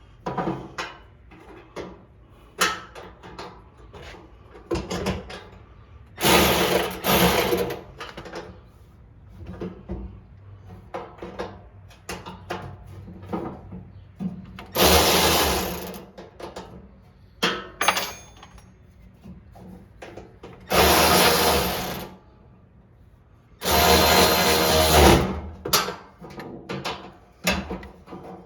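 Handheld power drill run in four short bursts of one to two seconds each, with small clicks and knocks of handling between the bursts.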